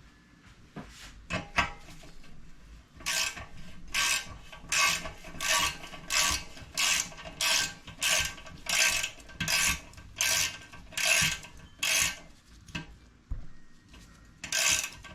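Hand ratchet wrench clicking on a fastener of a small engine: a few light clicks, then a steady run of about a dozen short bursts of ratchet clicking, one with each swing of the handle, and one more burst near the end.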